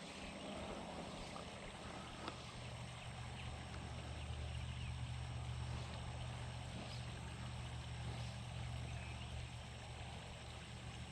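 Steady rain with a low, steady hum underneath that is strongest in the middle stretch.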